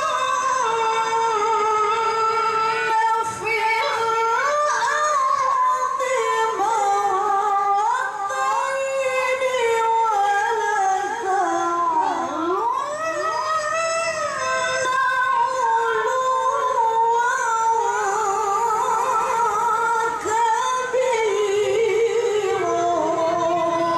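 A woman reciting the Quran in the melodic tilawah style, high-pitched and ornamented, holding long melismatic notes with a wavering trill. About halfway through her voice dips low and climbs back up.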